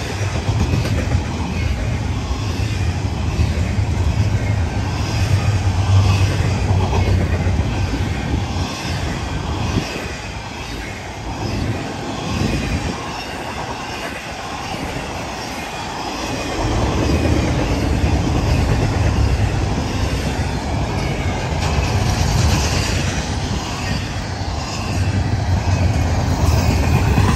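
Loaded double-stack intermodal well cars rolling past on the rails, a continuous low rumble of wheels and cars. It eases off in the middle and builds again toward the end.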